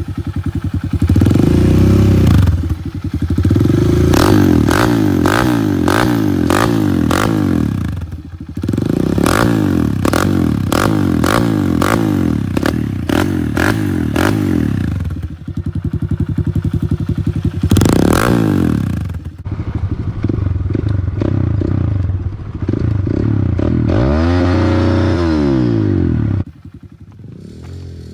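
Kawasaki KLX140L single-cylinder four-stroke dirt bike running through a Pro Circuit aftermarket exhaust, revved up and down again and again, with repeated sharp cracks. Near the end it drops back to a quieter idle.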